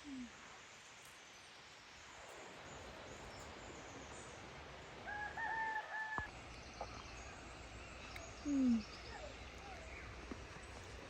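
A rooster crows once, about five seconds in, over steady background noise. About three seconds later a short, louder, low call drops in pitch.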